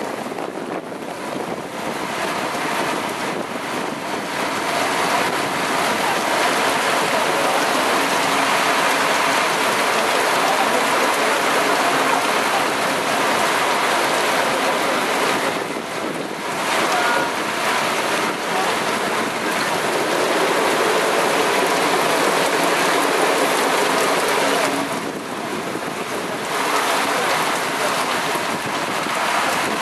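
Heavy rain pouring down in a thunderstorm downpour, a steady rushing hiss with gusting wind; it swells a few seconds in and eases briefly twice.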